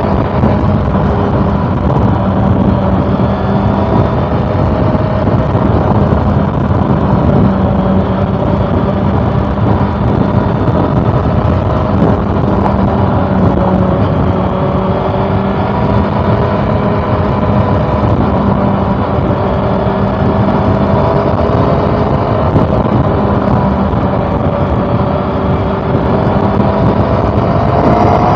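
2013 Honda CB400 Super Four Revo Hyper VTEC's inline four-cylinder engine running on the move, its note drifting gently up and down and climbing near the end, over a steady rush of wind noise.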